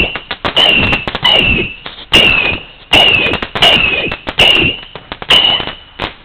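A 100-shot firework battery cake firing shot after shot, about one every three-quarters of a second. Each shot is a sharp crack with a brief high whistle that dips slightly in pitch, then a fading rumble.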